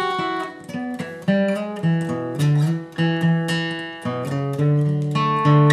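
Acoustic guitar playing a bluegrass lead line, single picked notes one after another, with notes slid up into and then struck.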